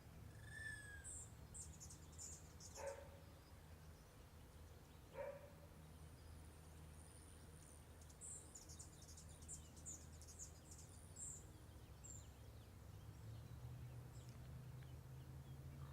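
Near silence over a low steady hum, with faint bird chirps and trills and a distant dog barking twice, about 3 and 5 seconds in.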